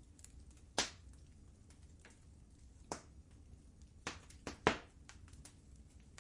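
Wood fire crackling in a fireplace: scattered faint ticks with a few sharp pops, one a little under a second in and a quick cluster of three between four and five seconds in, over a low steady rumble.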